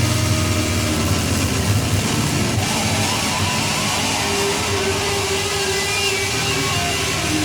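Live heavy rock band playing loud, with a held note rising out of the mix about halfway through.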